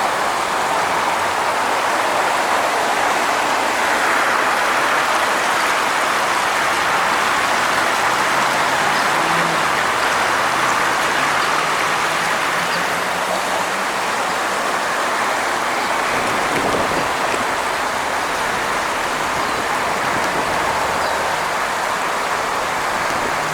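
Storm-swollen creek in full flow after heavy rain, its water rushing with a steady, even roar.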